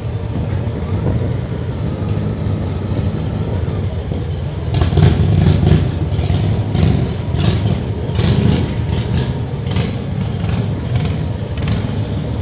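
Motorcycle engine running with a steady low rumble. From about five seconds in, a run of short, irregular bursts of hiss rides over it.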